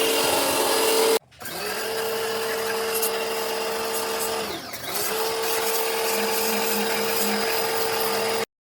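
Electric power-tool motor running with a steady whine. It cuts out about a second in, starts again, slows and picks back up around the middle, then stops abruptly near the end.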